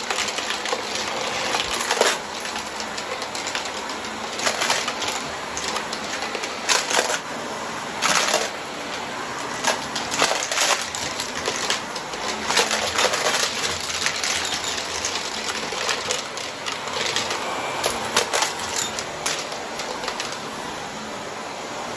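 Vacuum cleaner running steadily while sucking up coins, which clatter and rattle through it in irregular bursts of sharp clicks.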